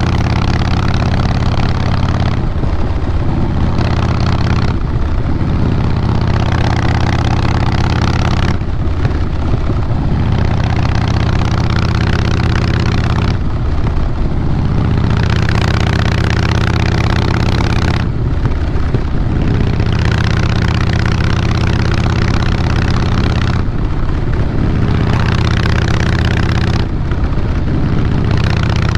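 Harley-Davidson Fat Boy Lo's Twin Cam 96B V-twin running through Vance & Hines Big Radius 2-into-2 exhaust. It goes at a steady throttle, broken every few seconds by brief lifts off the throttle before it pulls again.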